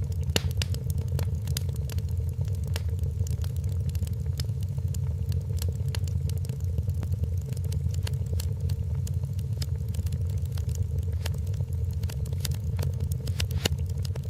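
Wood fire in a fireplace crackling: frequent sharp pops and snaps over a steady low rumble.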